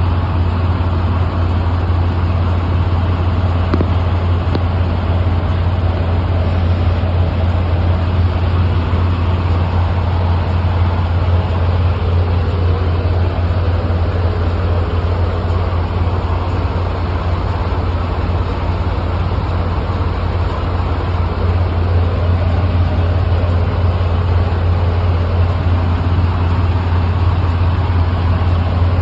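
Semi truck's diesel engine running steadily, a loud, even low drone with a constant hum and no changes.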